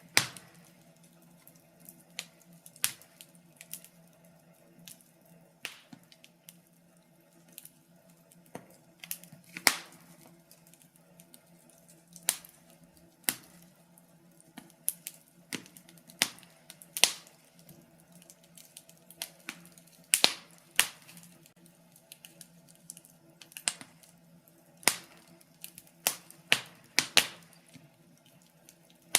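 Wood fire crackling: irregular sharp pops and snaps of burning logs, some much louder than others, over a faint steady low hum.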